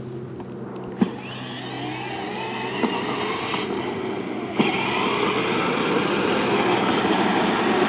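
Battery-powered ride-on toy car driving: its small electric motor hums and the wheels roll, getting louder from about a second in, with three sharp knocks along the way.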